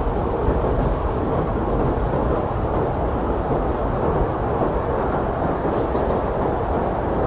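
Strong blizzard wind blowing steadily, a dense low rushing roar with no gusts standing out.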